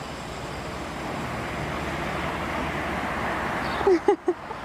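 Steady road traffic noise that slowly swells, with a few brief voice-like sounds about four seconds in.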